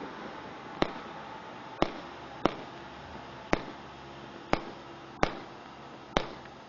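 A 100-shot fireworks cake firing, with seven sharp single bangs spaced about a second apart over a faint crackling background.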